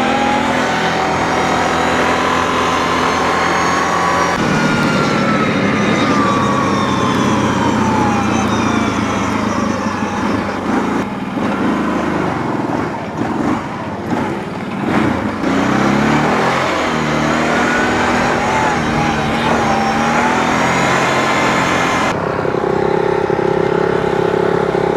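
Dirt bike engine running during trail riding, its pitch rising and falling with throttle and gear changes. About three seconds before the end it settles into a steadier, lower note.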